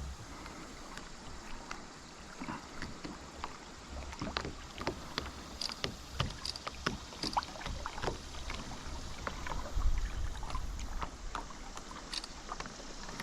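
Irregular light knocks and clicks from gear being handled aboard a fishing kayak on the water, with wind buffeting the microphone about ten seconds in.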